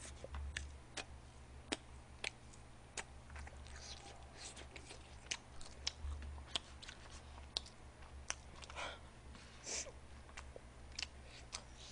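Faint chewing and mouth sounds of someone eating, with scattered short sharp clicks of chopsticks against a plate, over a low steady hum.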